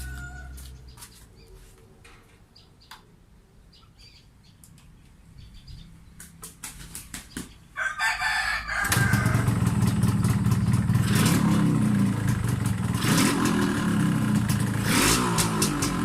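Yamaha RXZ 135's two-stroke single-cylinder engine starting: faint clicks and handling noises, then a few sputters that catch about eight seconds in, and the engine runs with the throttle blipped every couple of seconds.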